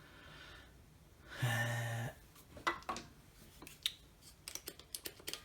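A short low hum about a second and a half in, then a run of light, irregular clicks and taps from small tools and parts being handled at a workbench while setting up to desolder a circuit board.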